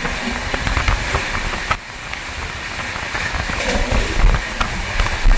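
A moving train running: a steady rumble and rattle with many sharp clicks and knocks from the wheels and carriages, briefly dropping in level just before two seconds in.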